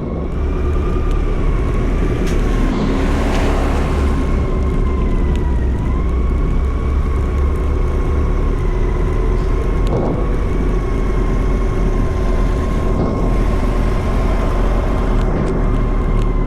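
Motorcycle cruising at a steady speed: the engine runs with a steady whine over heavy wind rumble on the microphone.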